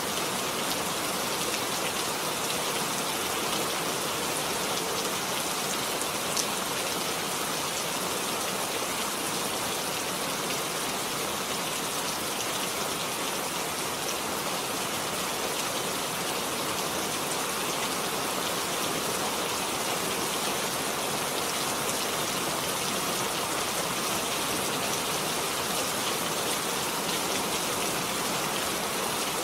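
Steady rain falling, an even hiss of many drops with faint scattered ticks of individual drops.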